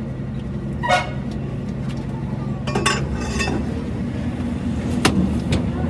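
A steady low mechanical hum, like an engine running, with a few sharp metallic clinks from tools or parts, one about a second in, one near the three-second mark and one near the end.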